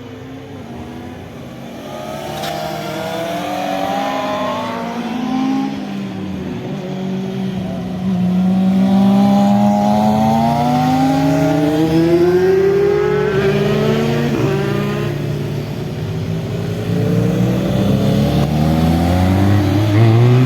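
Motorcycle engines revving and accelerating, their pitch falling and rising again through gear changes, growing louder as they come closer.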